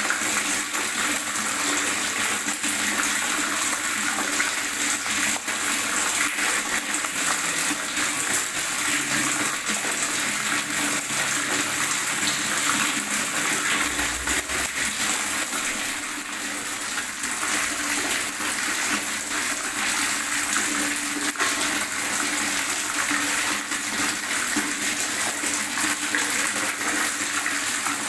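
Water gurgling and running steadily, a continuous bright, hissy rush with no pauses or breaks.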